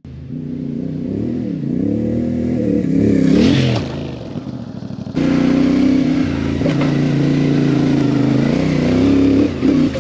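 CFMoto MT450 parallel-twin engine under way on a dirt track, its revs dipping and rising for the first few seconds. About five seconds in the level jumps abruptly and the engine holds steady at higher revs.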